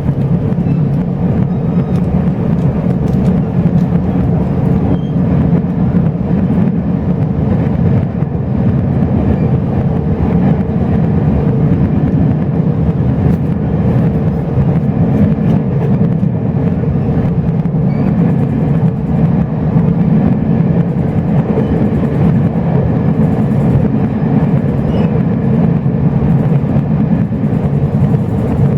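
Chu-Kuang express passenger coach running along the line, heard from inside the carriage: a steady, loud rumble with a low hum.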